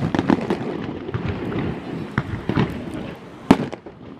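Fireworks going off: a run of sharp bangs and crackles, with the loudest bangs right at the start and about three and a half seconds in.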